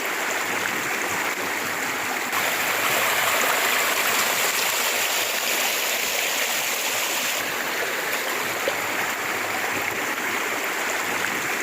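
River water rushing steadily, a little louder for a few seconds in the middle.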